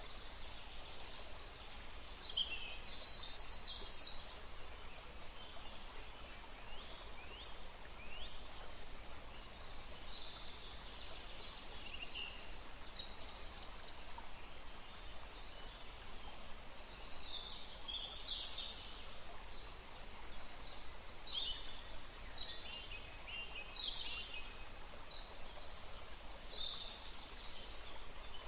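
Woodland ambience: small birds chirping in short clusters of high, falling notes every few seconds, over a steady low background hiss.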